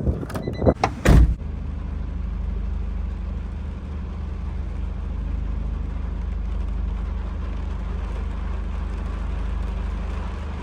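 A few loud knocks among wind buffeting, then a motor engine running steadily at an even pitch with a low, unchanging hum.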